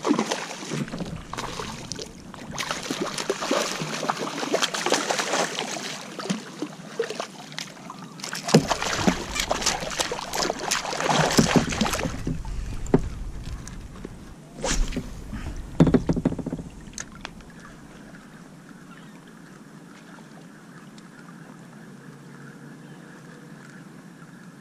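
Water splashing and sloshing around a kayak, with sharp knocks and splashes, loud for most of the time and settling to a quiet steady wash near the end.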